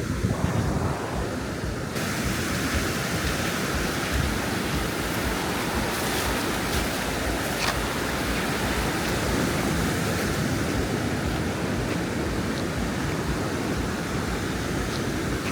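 Ocean surf breaking and washing up a sandy beach: a steady rushing hiss that grows brighter about two seconds in.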